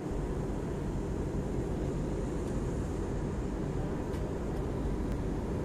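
Steady low rumble of a passenger airliner's engines, even and unchanging throughout.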